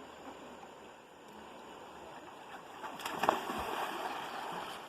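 River water running with a steady rush, joined about three seconds in by a few brief sharp sounds as it grows louder.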